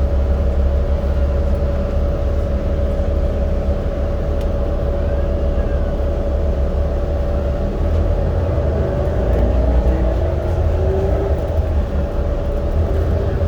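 Subway train running: a loud, steady low rumble with a constant whine, and a second motor tone that rises and shifts in pitch about nine to eleven seconds in.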